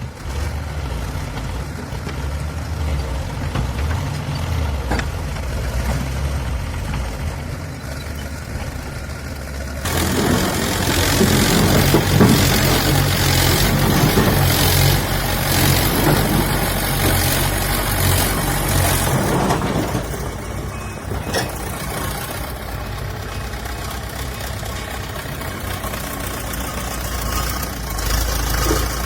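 Diesel engine of heavy construction machinery running steadily. About a third of the way in, a louder, noisier stretch of roughly ten seconds rises over it, then dies back to the engine hum.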